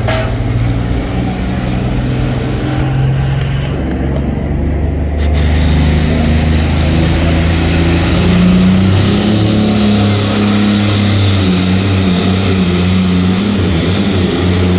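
John Deere pulling tractor's engine running loud, getting louder about five seconds in and holding there with a shifting pitch.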